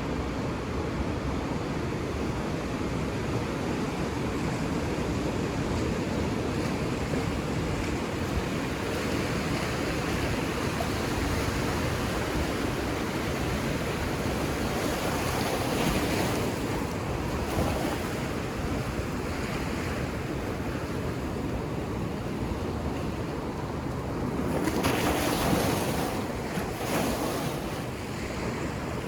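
Ocean surf washing onto a beach: a steady rush of breaking waves, with a few louder breakers swelling up past the middle and the loudest near the end.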